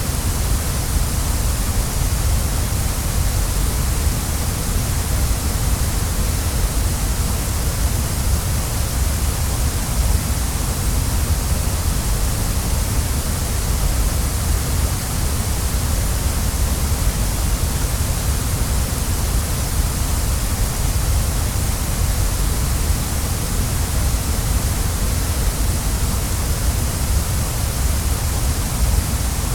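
Waterfall rushing, a steady, unchanging roar of falling water with a deep low rumble and a bright hiss.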